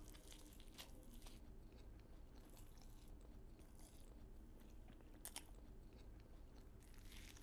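Faint close-up chewing, with a few soft crunchy clicks spread through it over a low room hum.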